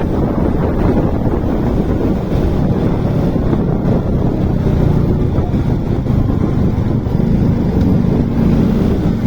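Motorcycle riding: steady wind rush on the microphone over the engine running at speed, with a faint low hum coming through near the end.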